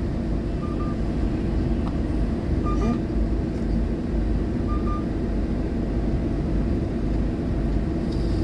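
Scania K230UB single-deck bus running: a steady engine and road rumble, with three faint short high tones about two seconds apart.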